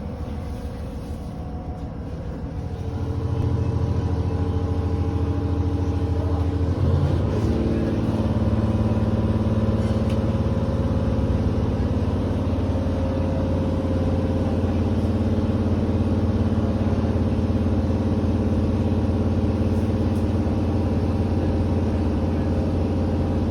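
Inside a JR Hokkaido H100 diesel-electric railcar, its engine and running gear grow louder about three seconds in as the train gets under way. Several steady tones shift in pitch around seven seconds, then settle into a steady run.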